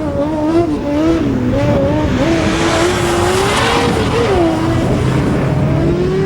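Race car engine revving up and down through a slalom course, the pitch rising and falling every second or so as the driver lifts and accelerates between turns, with a rush of tyre noise building in the middle.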